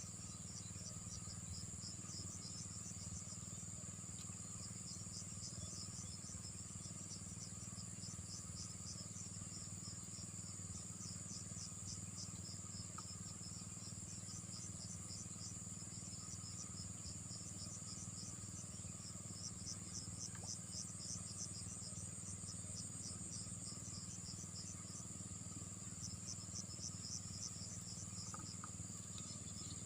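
Insects calling: a steady high-pitched drone with trains of rapid chirps that come and go, over a low steady hum.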